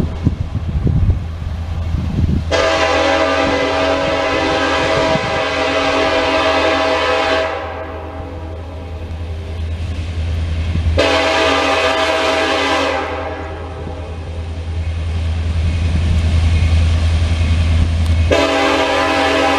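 Kansas City Southern diesel locomotive sounding its multi-tone air horn in three blasts: a long one of about five seconds, a shorter one of about two seconds, and a third starting near the end, over the locomotive's steady low engine rumble.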